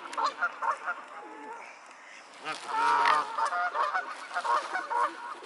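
Waterfowl honking: a run of short, nasal calls one after another, loudest about halfway through.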